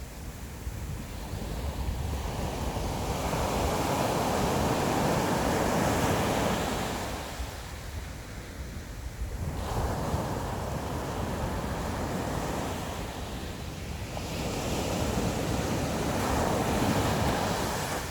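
Sea waves breaking and washing onto the shore in slow surges, three swells of rushing water, with wind rumbling on the microphone.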